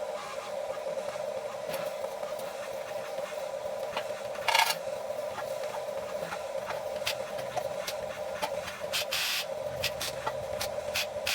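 Huina 1550 radio-controlled toy excavator's electric motors and gears whirring with a steady hum, broken by a few short scrapes and clicks, the loudest about four and a half seconds in.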